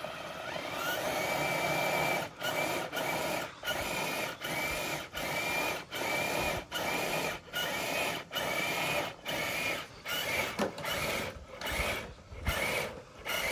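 Electric motor and gears of a scale RC crawler truck whining as it drags a dead-weight sled. The whine builds over the first two seconds, then cuts out and comes back in short throttle bursts, about one every three quarters of a second.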